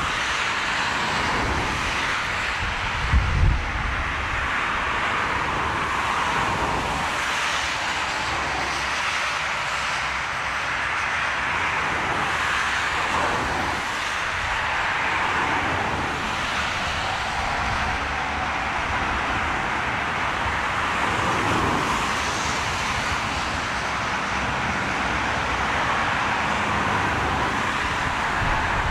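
Jet airliner engines heard from the ground during a landing in strong wind: a steady rushing noise that slowly swells and fades, with a brief gust of wind on the microphone about three seconds in.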